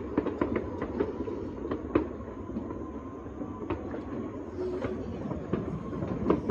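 Many distant fireworks and firecrackers going off across a city, a steady crackle of irregular pops and bangs several times a second. A sharper bang comes about two seconds in and another near the end.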